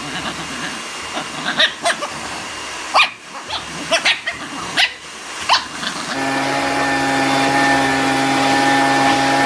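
A dog gives about six short, sharp barks over a steady noise. About six seconds in, a steady droning hum starts.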